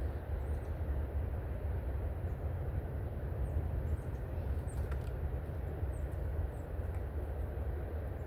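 Steady low rumble, like a distant engine, with faint, short, high chirps of small birds dotted through it.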